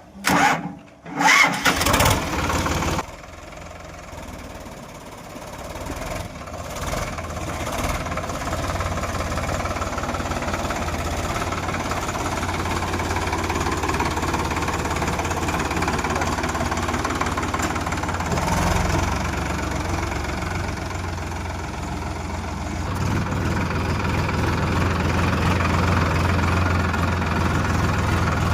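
Tractor diesel engine cranking and catching in the first few seconds, then running steadily, growing a little louder near the end.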